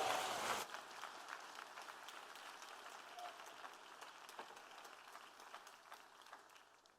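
Audience applauding at the end of a piece. The clapping is loud for the first half second, drops off suddenly, then thins to scattered claps that fade away.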